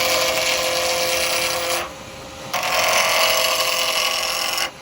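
A round carbide chisel roughing down a spinning acrylic pen blank on a lathe: a loud, rough cutting noise with a steady whine. It runs for about two seconds, breaks off for half a second, then comes back for about two seconds more and stops near the end, as the tool is lifted off and put back on the blank.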